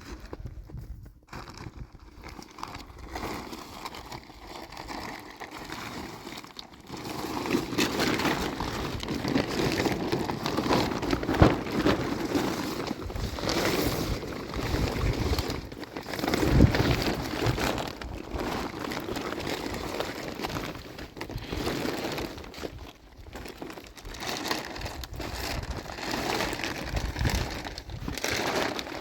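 Plastic sheeting rustling and crinkling in irregular bursts, louder and busier from about seven seconds in.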